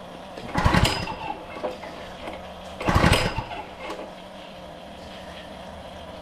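Two pulls on the recoil starter of a Honda small engine, about two seconds apart, each a short whirring crank. The engine turns over but does not fire, because its switch is still off.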